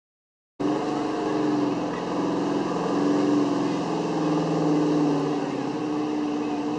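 Big-block V8 engine of a street-class pulling truck running at low revs, its pitch drifting slightly up and down over a background hiss. It starts abruptly about half a second in.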